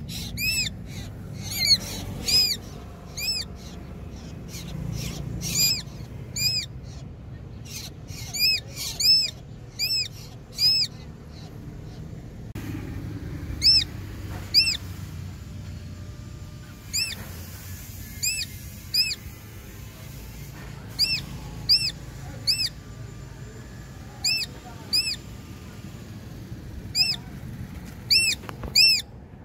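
A bird calling: short, high, clear notes repeated in quick runs of several a second, with pauses between the runs.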